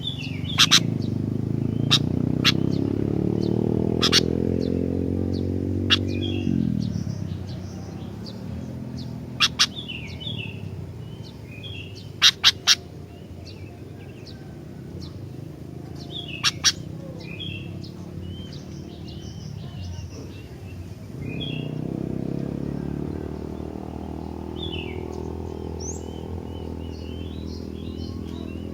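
Sooty-headed bulbul (kutilang) singing short chirping phrases, broken by several sharp loud clicks. An engine runs underneath, rising in pitch over the first six seconds, then dropping away, and returns more steadily about 21 seconds in.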